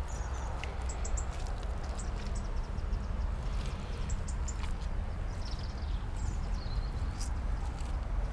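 Small birds chirping in short, high calls scattered throughout, over a steady low rumble and hiss of outdoor background noise.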